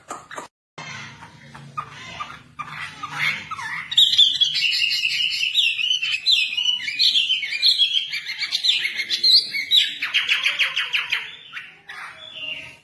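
A wambi songbird singing. It starts with quieter, varied calls over a low hum, then from about four seconds in breaks into a loud, fast run of chirps and trills that lasts until near the end.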